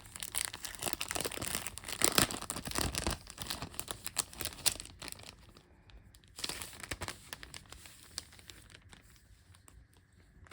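Packaging crinkling and being torn as a package of stickers is opened by hand, busiest in the first half and then thinning out to occasional rustles.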